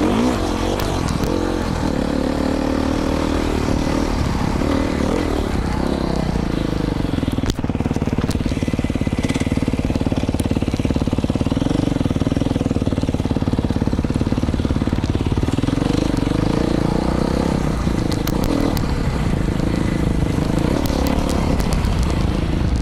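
Beta 500 RRS single-cylinder four-stroke dirt bike engine running through an FMF Powerbomb header and Q4 silencer, revving up and down as it is ridden over desert terrain, with a brief drop in throttle about seven seconds in.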